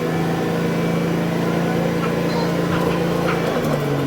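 Diesel railcar engine pulling the train away, played back at double speed: its pitch holds steady under load, then drops about three and a half seconds in as it changes gear and starts climbing again.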